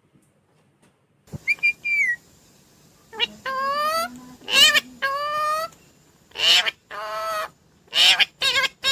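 Indian ringneck parakeet calling: a short whistle, then a run of harsh screeches alternating with drawn-out rising calls.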